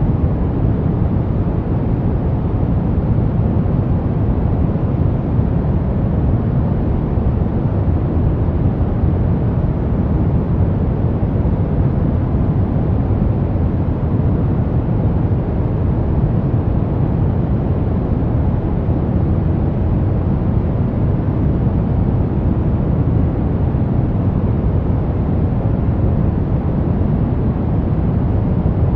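Brown noise: a steady, deep, rumbling hiss with most of its energy in the low end and little treble, unchanging throughout.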